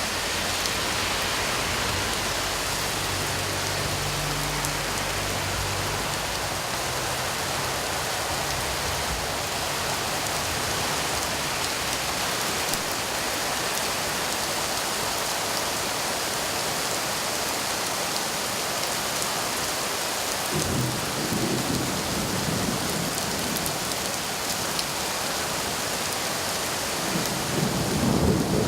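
Steady heavy rain falling during a thunderstorm, with low rumbles of thunder a few seconds in and twice more in the second half.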